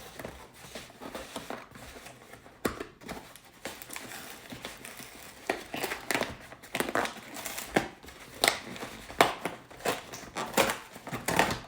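Packaging being crinkled and torn open by hand, with irregular crackles and rustles that grow busier in the second half.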